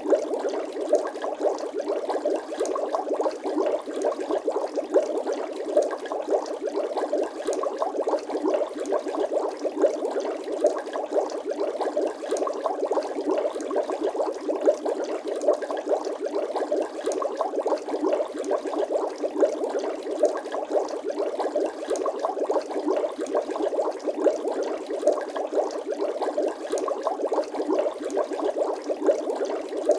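Bubbling-water sound effect: a dense, steady stream of many small bubbles popping and gurgling, with no low rumble.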